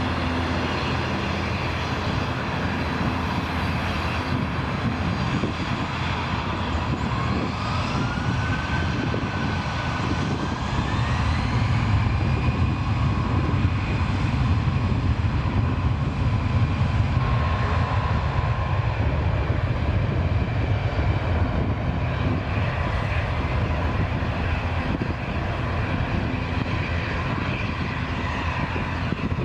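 Jet airliner engines at takeoff thrust: a loud, steady rumble with a whine that rises in pitch, then holds, as the engines spool up. The sound grows louder around the middle.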